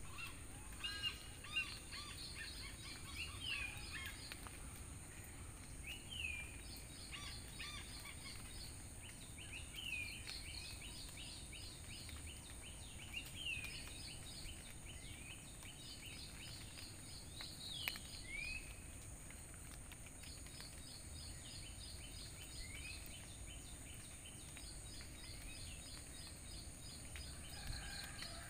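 Birds calling every few seconds: quick runs of repeated high notes and short sweeping chirps, over a steady faint high hiss and low outdoor background noise.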